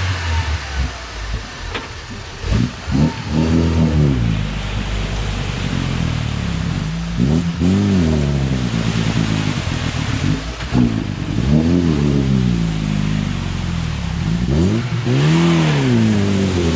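UAZ off-road vehicle engine revving hard and easing off about four times in swells, driving under heavy load with the differential lock engaged.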